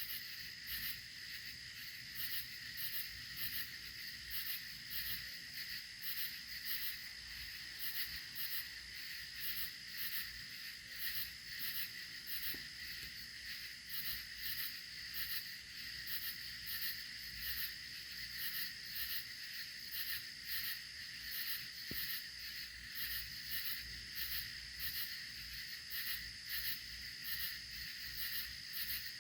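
Night insects such as crickets: a steady high trill with a sharper, higher chirp repeating about twice a second.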